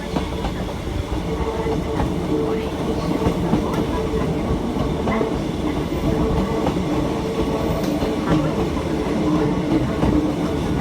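Hakone Tozan Railway train running on the mountain line: a steady rumble of wheels on rail with a steady two-note hum from the train and a few faint clicks.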